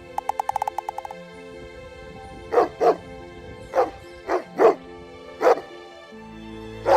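A dog barking over background music: about seven short barks spread over the second half. A quick, even run of clicks comes in the first second.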